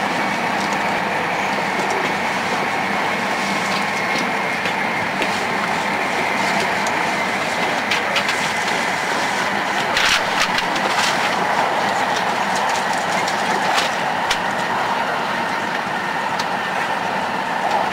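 Tohoku Shinkansen train running at speed: a steady rumble and rushing noise with a faint whine, and scattered clicks and knocks, the strongest about ten seconds in.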